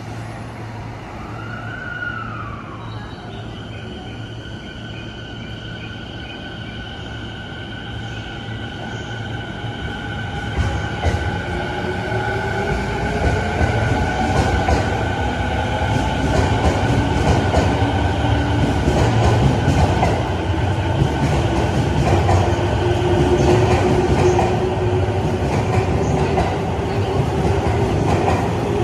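Rinkai Line 70-000 series electric train pulling away: its traction motor whine glides up in pitch as it accelerates, and the running noise grows louder from about halfway through.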